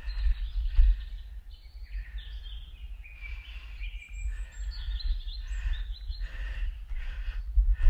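Small songbirds singing and chirping in short trills, over a steady low rumble on the microphone and the faint steps of someone walking.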